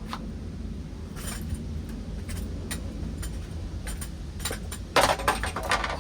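A damaged ceiling fan running with loose metal and glass parts clinking and rattling over a steady low hum, scattered clicks building to a louder clatter near the end.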